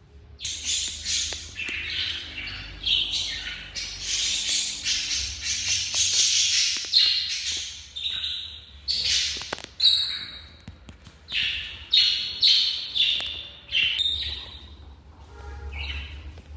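Pet parrots calling: a long, rapid run of shrill squawks and chirps that thins out near the end.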